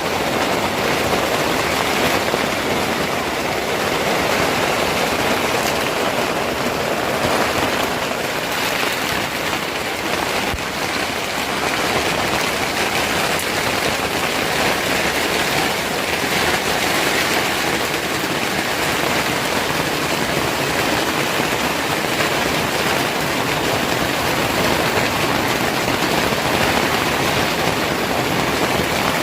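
Steady, heavy rain: an even hiss that keeps up without a break.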